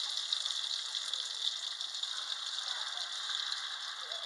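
Pancake batter sizzling in a hot stainless-steel frying pan: a steady crackling hiss.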